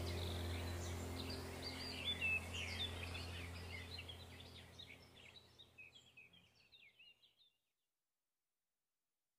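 Small birds chirping and twittering over a low steady hum, all of it fading out to silence about seven and a half seconds in.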